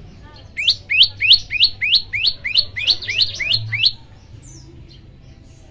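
A prenjak lumut songbird singing a rapid run of about a dozen identical rising notes, about four a second, starting about half a second in and stopping about four seconds in. Faint chirps of other birds sound around it.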